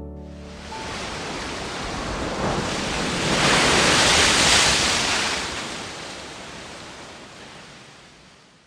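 Sea waves washing ashore, one long swell that grows to a peak midway and then fades out. The last notes of a piano die away at the start.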